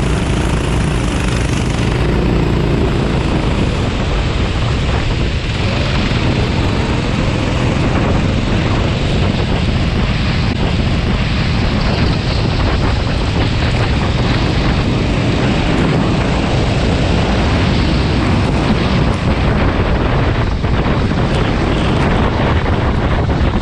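Go-kart engine running at speed, mostly buried under loud, steady wind noise on the microphone.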